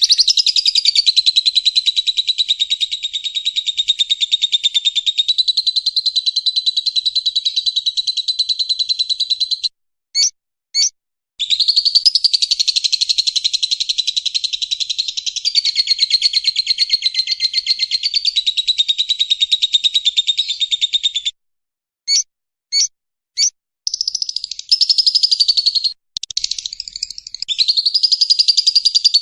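Lovebird's long 'ngekek' chatter: a loud, very rapid, unbroken trill running about ten seconds. Near the middle it breaks into two short chirps, then chatters on for another ten seconds, breaks into three short chirps, and resumes in shorter runs.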